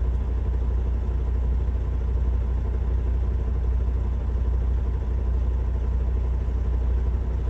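Semi truck's Cummins diesel engine running steadily with a deep low hum, pulling a fully loaded rig at 80,000 lb gross.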